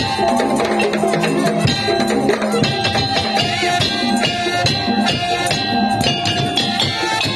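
Madurese tong-tong (daul) percussion ensemble playing a steady, driving beat, with shaken rattle-like percussion and a held melodic line over it.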